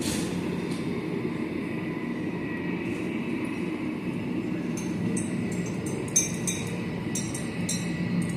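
A steady mechanical rumble with a faint high whine, joined about five seconds in by a series of light clinks.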